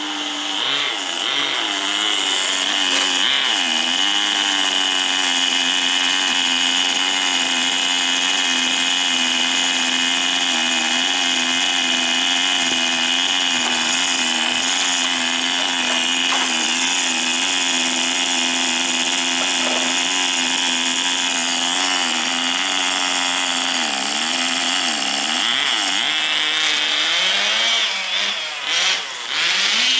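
Tamiya TGS 1/10 RC car's small two-stroke nitro glow engine running at high speed with a steady buzzing note for most of the stretch, its pitch swooping up and down several times near the end.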